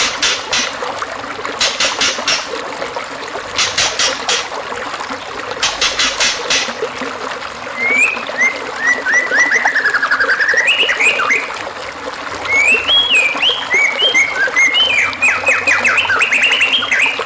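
Recorded songbird song over a steady trickle of running water, played as masteran (training song) for white-rumped shamas. It opens with short bursts of rapid, high clicking trills about every two seconds, then from about eight seconds a long, varied run of whistled notes sliding up and down.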